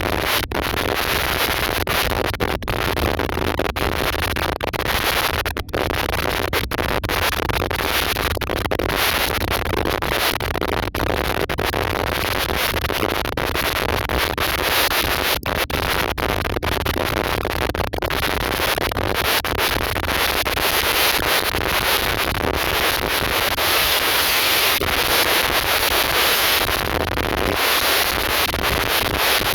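Steady rushing roar of an airliner cabin in flight, engine and airflow noise, broken by many very brief dropouts.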